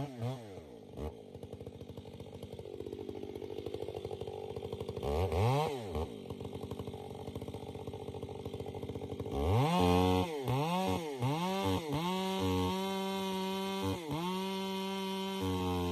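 Two-stroke chainsaw engine running at low revs with one quick throttle blip, then about two-thirds of the way through revving hard, its pitch dipping and climbing back over and over.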